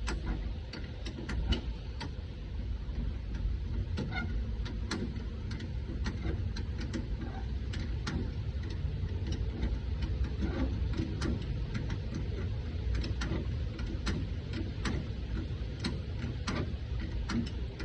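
Irregular light clicks and ticks of tools and parts being handled during work on a pickup's rear emergency brake, over a steady low rumble.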